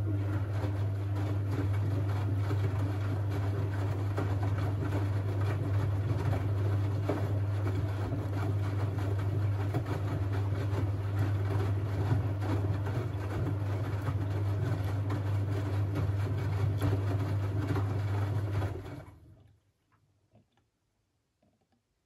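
Siemens Siwamat 6143 washing machine running a steady electric hum with rushing water, from its mains-driven pump or inlet valve. It cuts off about 19 seconds in, leaving only faint ticks.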